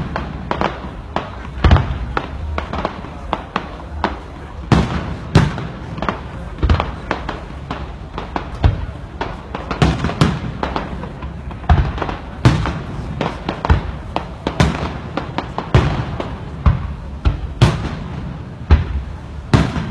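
Fireworks display: aerial shells bursting in a dense, irregular series of sharp bangs, several every couple of seconds, with crackling between them.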